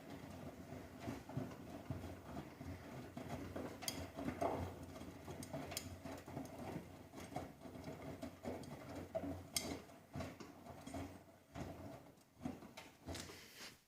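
Miele Softtronic W 3657 front-loading washing machine running: a steady motor hum under irregular knocks and clicks from the drum, cutting off suddenly at the end.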